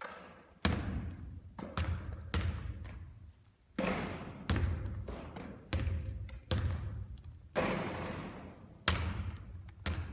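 Basketball bouncing on an indoor court, about ten sharp, irregularly spaced thuds, each ringing out with echo.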